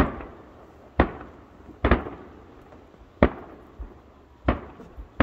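Aerial firework shells bursting, five sharp booms roughly a second apart, each trailing off in a fading echo.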